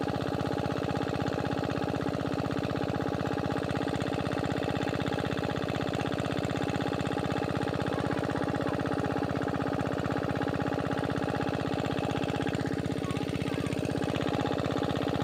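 Diesel engine of a farm water pump set running at a steady speed with an even, rapid beat.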